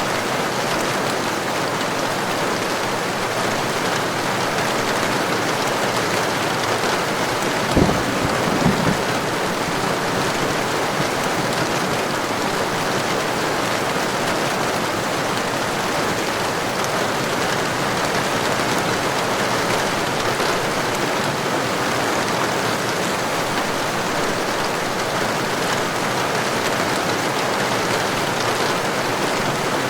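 Heavy rain falling steadily. About eight seconds in, a sudden low crack of thunder, followed by a second or so of uneven low rumble.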